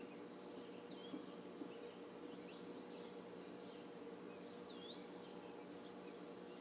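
Faint bird calls over a steady low hum: a few high whistles sliding downward, the clearest about a second in and again around four and a half seconds, with short chirps between.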